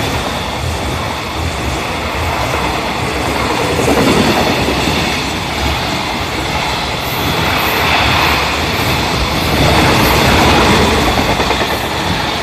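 JR Freight container train passing on the nearest track, its container flatcars' wheels rumbling steadily and loudly over the rails.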